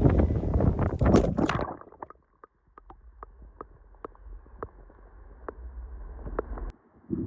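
Gusting wind on the microphone, which cuts off suddenly under two seconds in, leaving a quieter low rumble with light ticks about three a second.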